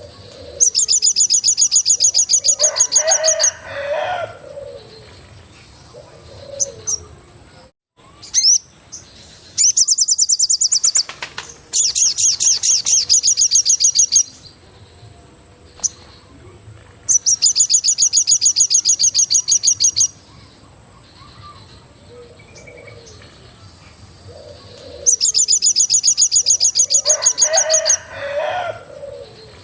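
Birdsong: fast, high trills of about two to three seconds each, repeated five times, with a lower call after the first and last trills.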